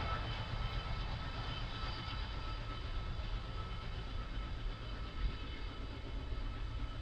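Passenger train hauled by an ALCo WDM 3A diesel locomotive running on the line. It makes a steady low rumble with a thin steady whine above it, slowly getting quieter.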